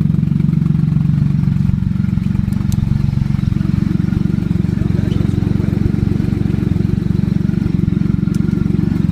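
Triumph Rocket III motorcycle's 2.3-litre three-cylinder engine running steadily at a constant speed through its exhausts, with no revving.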